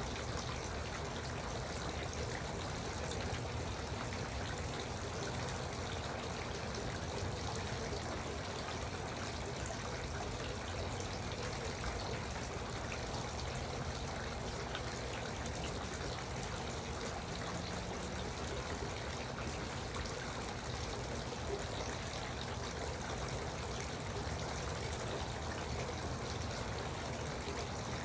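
Garden water fountain: water trickling and splashing steadily, with no change.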